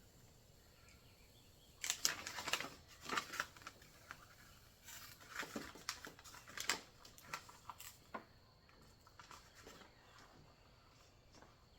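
Paper being peeled off and crumpled: a run of short, irregular crinkling and tearing noises that starts about two seconds in and thins out after about eight seconds.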